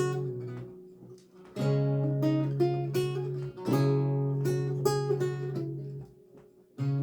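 Solo lute playing plucked phrases over sustained bass notes. The sound dies away about a second in and again near the end before each new phrase begins.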